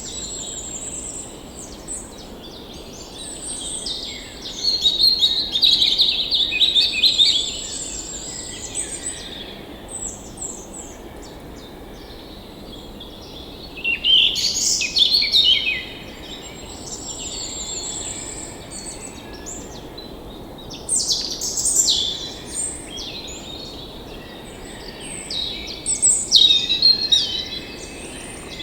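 Songbirds singing and chirping, with loud bursts of rapid trilled song every several seconds and a thin high trill running between them, over a steady faint hiss.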